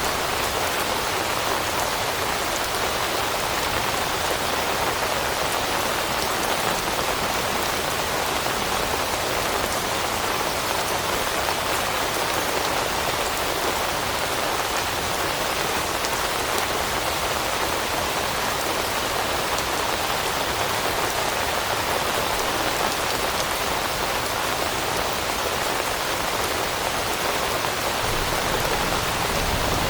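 Steady rain falling on leaves: a dense, even patter of many drops that neither builds nor eases.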